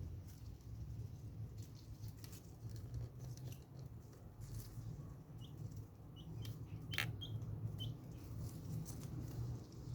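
Ducklings giving short high peeps, about half a dozen in the second half, among light clicks and patter, over a steady low hum.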